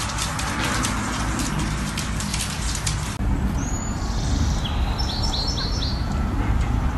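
Small bird chirping outdoors: one falling chirp, then a quick run of about five chirps, over a low rumble of wind or distant traffic. Before them comes a stretch of rapid clicking.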